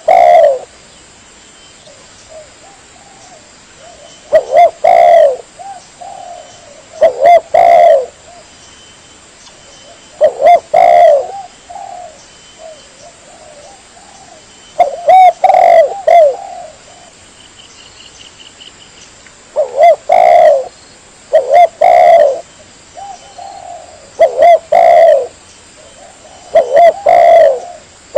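Spotted dove (tekukur) cooing: loud coo phrases, often two close together, repeating every two to four seconds with softer coos in between. It is a lure call recording for drawing in wild tekukur.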